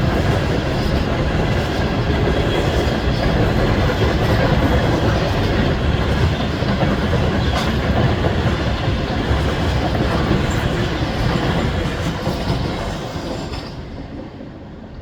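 Loaded coal gondolas of a freight train rolling past, their wheels clattering over the rail joints in a steady clickety-clack, fading out over the last couple of seconds.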